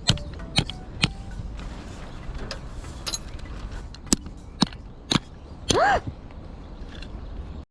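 Irregular sharp clicks and knocks, with a short squeak that rises and falls in pitch about six seconds in.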